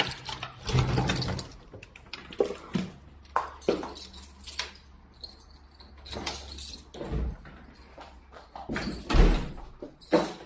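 A door being opened and shut, with a string of knocks and clunks, the heaviest about nine seconds in, over a low hum that stops about seven seconds in.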